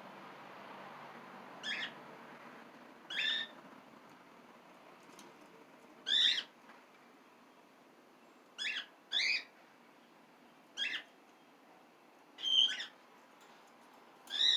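Cockatiel giving short contact calls, eight separate calls spaced a second or two apart, each a brief wavering whistle.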